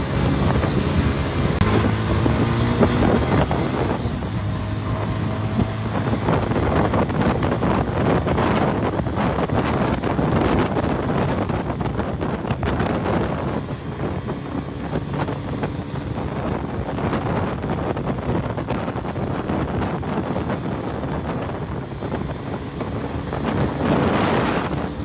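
Suzuki 150cc motorcycle engine running at motorway speed under heavy wind noise on the microphone. The engine pitch rises in the first few seconds as it accelerates.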